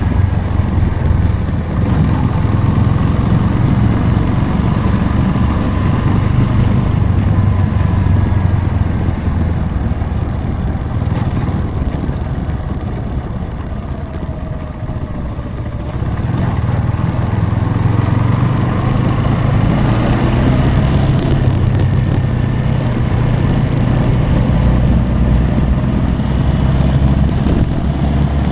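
Motorcycle engine running steadily while riding. It eases off and gets quieter about a third of the way in, then picks up again a little past the middle.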